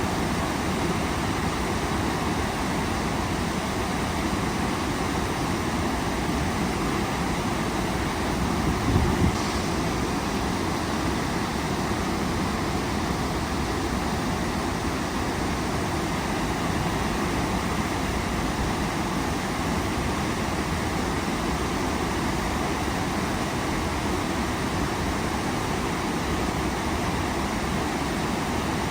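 Waterfall rushing steadily, an even roar of falling water, with a brief louder swell about nine seconds in.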